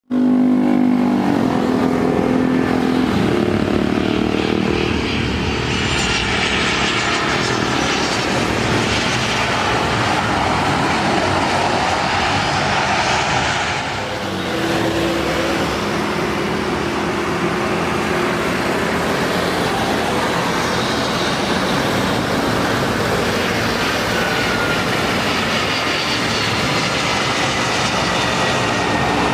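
Jet airliner engines passing close on landing approach: a loud, steady rush with thin whining tones that slowly fall in pitch.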